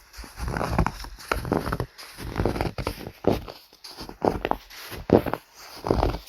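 Footsteps crunching in snow, a steady walking pace of a little over one step a second.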